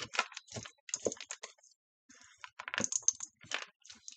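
A spoon stirring and scraping food in a pot of rice, chicken and frozen peas and carrots: irregular clicks and scrapes, with a short pause about halfway through.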